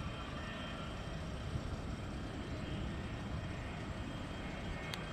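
Jet airliner engines running with a steady low rumble and a faint high whine. A short click comes near the end.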